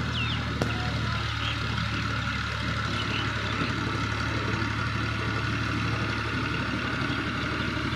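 Al-Ghazi tractor's engine running steadily at an even pitch, with a single sharp click about half a second in.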